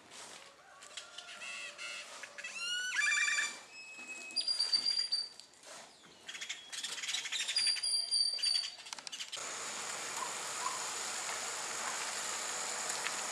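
Songbirds calling and singing: clear whistled notes, quick rising series and trills. About nine seconds in, these give way to a steady, even rushing noise.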